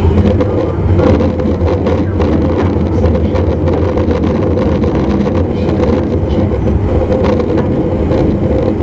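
Running noise inside a JR East E259 series Narita Express motor car: a steady low rumble from the running gear with a constant hum from the drive beneath the floor, and scattered light clicks.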